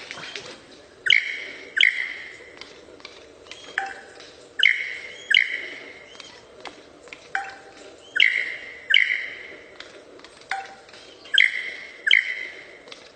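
A bird calling loudly in repeated groups of mostly three short, sharp notes, a group about every three seconds.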